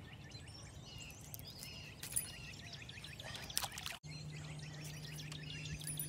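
Small birds chirping repeatedly in the background, with a couple of sharp clicks about two and three and a half seconds in. After an abrupt cut about four seconds in, a low steady hum comes in under the chirping.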